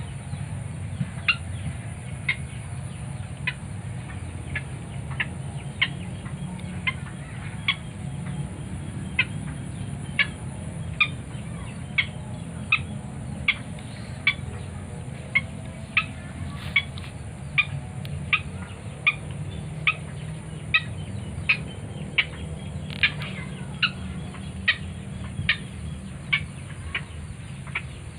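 White-breasted waterhen (ruak-ruak) calling: short, sharp, harsh notes repeated in a steady rhythm, a little over once a second.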